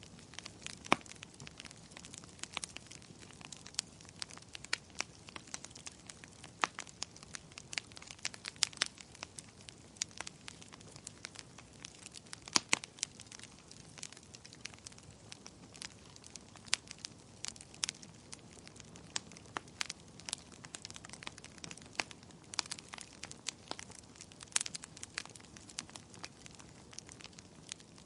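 Wood fire crackling in a fireplace: irregular sharp pops and snaps over a soft steady hiss, with a louder pop about halfway through.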